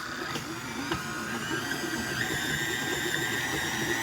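Stand mixer running steadily at medium speed with its paddle attachment, creaming butter, shortening and sugar. It gives an even motor whine.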